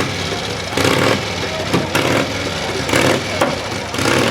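Motorcycle engine revving in repeated surges, about once a second.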